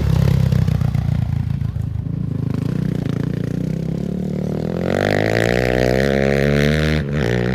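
Off-road race vehicle's engine under power, its pitch climbing steadily for about two seconds as it accelerates, with a brief break near the end, like a gear change.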